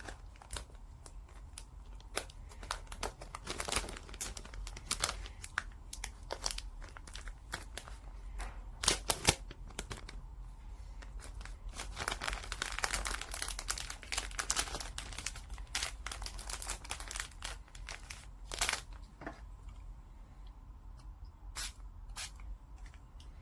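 Crinkling and tearing of a thin material handled close by: irregular rustles and sharp crackles, busiest about halfway through.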